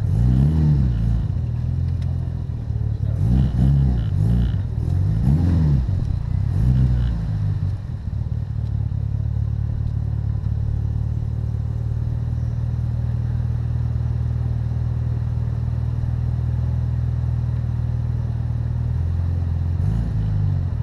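Mitsubishi Lancer Evolution's turbocharged four-cylinder engine, heard close from low on the car's body. The revs rise and fall briefly four times over the first eight seconds as the car creeps forward, then the engine idles steadily, with one more short rev near the end.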